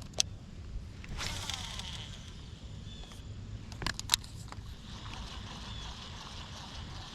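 Steady low outdoor rumble with a sharp click just after the start, a short rushing hiss about a second in, and two quick sharp clicks around four seconds in.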